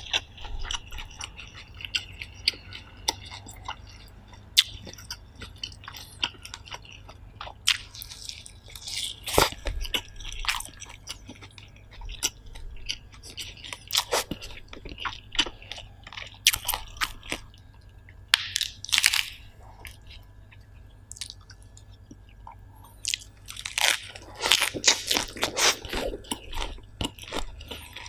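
A person chewing a mouthful of food close to the microphone: crunching and wet smacking, with louder bursts of crunching now and then, the longest near the end.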